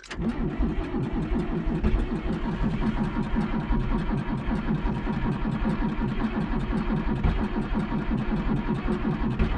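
John Deere 3140 tractor's diesel engine starting in the cold and running with a steady rapid beat, about six pulses a second. The owner calls the engine a little cold natured.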